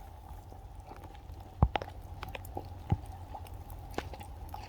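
Footsteps crunching in fresh snow: a few irregular crunches, the loudest about a second and a half in and again near three seconds, over a low steady rumble.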